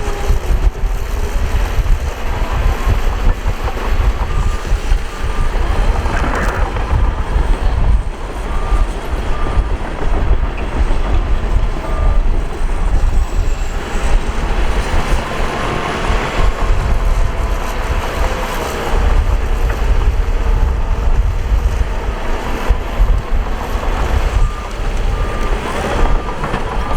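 Heavy earthmoving machinery running with a steady low engine rumble, while a reversing alarm beeps in two spells, once midway and again near the end.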